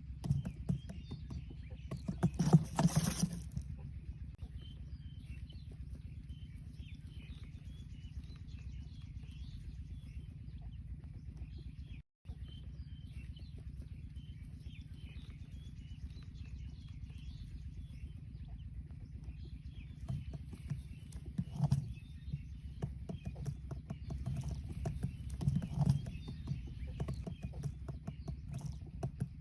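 Small birds chirping and twittering over a steady low rumble, with a louder burst about two and a half seconds in and a brief dropout a little before halfway.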